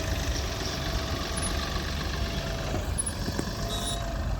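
Mahindra vehicle on the move: steady low engine and road rumble, with a faint thin steady tone over it and a few small clicks.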